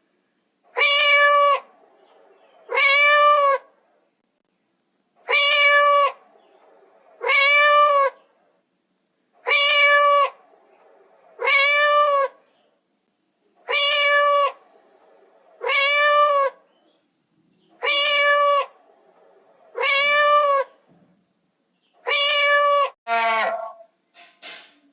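Cat meowing over and over, each meow just under a second long, rising then falling in pitch, in pairs about two seconds apart. The meows are so alike that they sound like one recorded meow repeated. Near the end come a few shorter, different calls.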